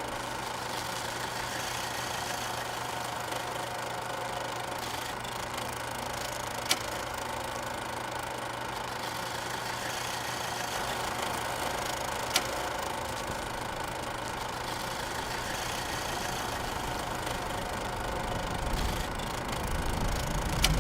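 A motor-vehicle engine running steadily, with a constant low hum and two short sharp clicks, swelling in level near the end.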